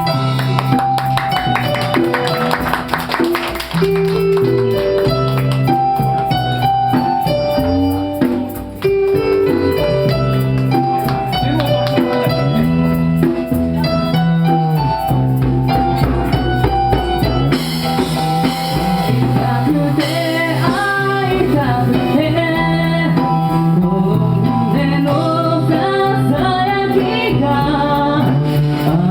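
Live band music: a pop ballad with drums and a melodic lead line over the accompaniment.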